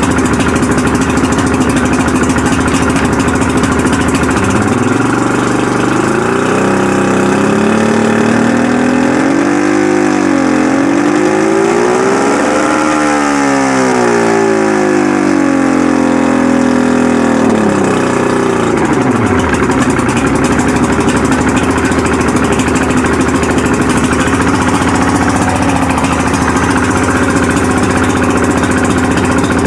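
Twin 1998 Yamaha 250 HP V6 two-stroke outboard motors idling, then revved up over about eight seconds and eased back down to idle, settling again about twenty seconds in.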